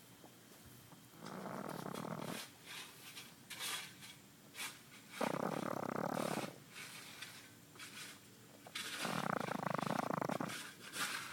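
A sleeping pug snoring: three long rasping snores about three and a half seconds apart, with fainter short breaths between them, a snore typical of the breed's flat-faced, narrow airway.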